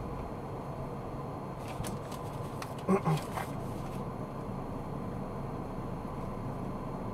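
Steady road and engine noise inside a moving car, picked up by a dashcam. A few faint clicks come in about two seconds in, and a short, loud pitched blip sounds about three seconds in.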